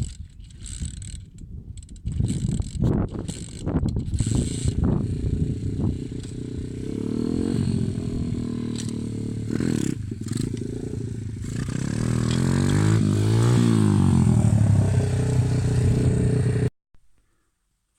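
Lifan 110cc pit bike's single-cylinder four-stroke engine. Irregular clattering and knocks come first, then the engine runs and revs, its pitch rising and falling and growing louder, before the sound cuts off suddenly near the end.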